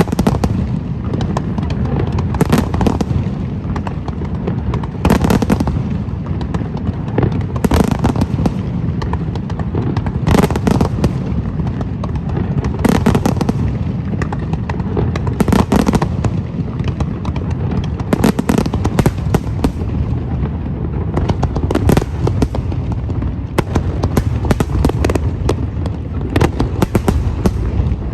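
Fireworks display: a steady low rumble and crackle of bursts, with a loud bang roughly every two and a half seconds.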